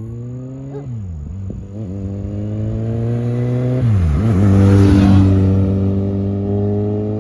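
Kawasaki Concourse 14's inline-four engine accelerating hard through the gears, its pitch climbing in each gear and dropping at upshifts about one and four seconds in. It grows louder to a peak about five seconds in, then fades.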